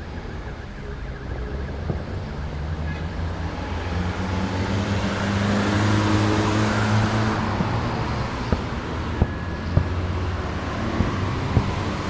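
A continuous low rumble that swells to a peak about halfway through, with a drone like a passing engine, then several short sharp bangs of a fireworks salute in the second half.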